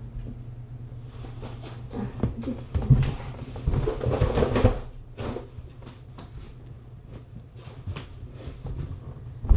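Scattered rustling and soft knocks, thickest between about two and five seconds in, over a steady low hum, with one sharp click at the very end.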